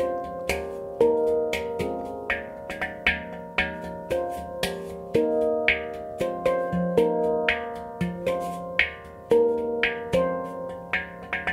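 F minor handpan (Oasis Sound Sculpture) played solo by hand: a steady flow of struck notes, each ringing and overlapping the next, with occasional quick double strikes.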